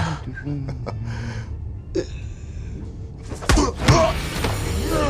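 Film soundtrack: music score under scattered thuds and knocks, with the loudest impacts about three and a half to four seconds in.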